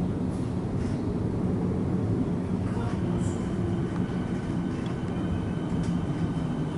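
Electric suburban train, a steady low rumble, with faint steady whining tones joining in about three seconds in.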